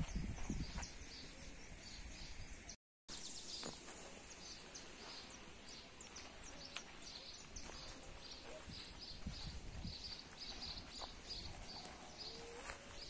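Quiet outdoor ambience with a bird chirping over and over, a couple of short high calls each second, over a faint steady background noise. The sound drops out completely for a moment about three seconds in.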